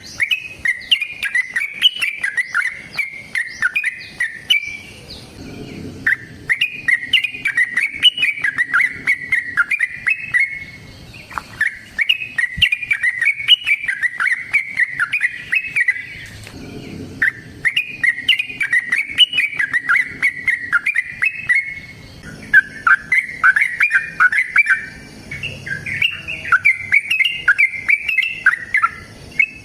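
Yellow-vented bulbul (trucukan) singing in full voice: long, rapid, bubbly chattering phrases of about five seconds each, repeated with short pauses between them.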